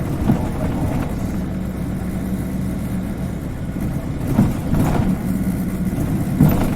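Isuzu Cubic KC-LV380N city bus heard from inside the cabin, its engine humming steadily while the bus drives. A few short knocks or rattles come through, about four times.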